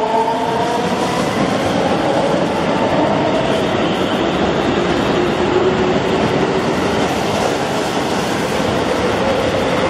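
Keikyu electric train moving slowly along the station platform, its motor whine made of several tones sliding slowly down in pitch as it slows, over a steady rumble of wheels on rail.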